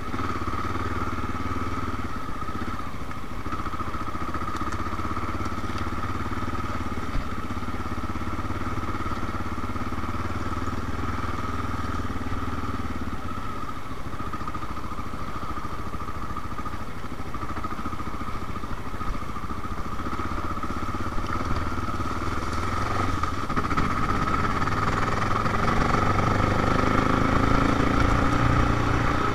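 Honda XR650L's single-cylinder four-stroke engine running steadily as the bike rides along, then revving up and getting louder over the last few seconds.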